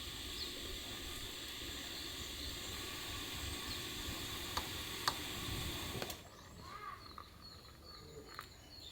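Steady outdoor background noise for about six seconds, then an abrupt drop to a quieter natural ambience with birds chirping now and then.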